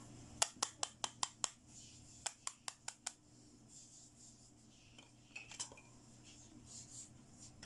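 Small hard plastic toy pieces clicking against each other in two quick runs of sharp clicks, about five or six a second, followed by softer handling noises as the pieces are set down.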